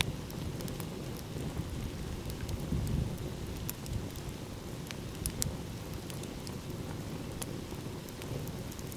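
Wood fire crackling, with sparse sharp pops scattered through, over a steady low rumble of ocean surf.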